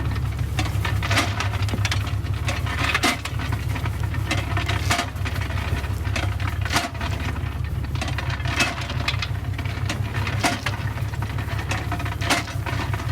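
Truck engine running steadily, with scattered sharp clicks and knocks every second or two.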